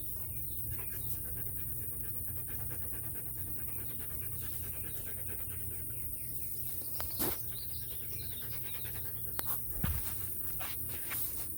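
A dog panting rapidly in quick, even breaths, with a few sharp clicks in the second half.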